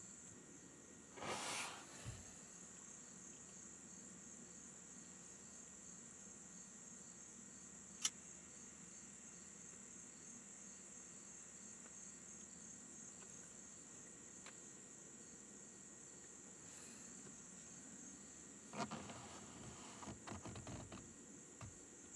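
Faint, steady high-pitched chirring of insects. There is a short rustle about a second in, a single sharp click around the middle, and a few small handling knocks near the end.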